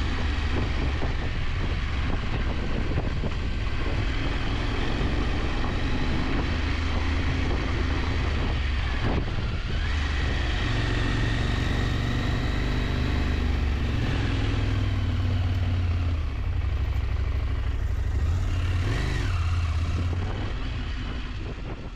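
KTM 890 Adventure's parallel-twin engine running steadily while riding, with a brief rise in engine pitch near the end before the sound fades out.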